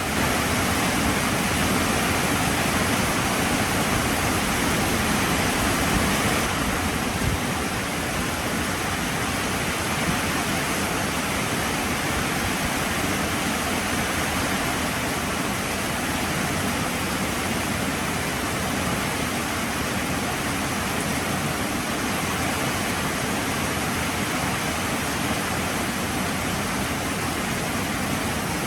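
Heavy rain falling steadily, an even hiss, a little louder for the first six seconds or so.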